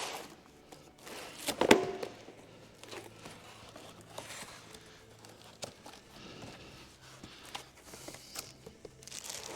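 Scattered light knocks and clinks of metal engine parts being handled, as a flex plate is offered up to the back of an engine's crankshaft, with one louder knock just under two seconds in. A faint steady hum runs underneath.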